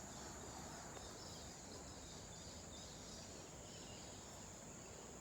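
Faint, steady drone of insects: one continuous high-pitched note that does not break, over quiet outdoor background noise.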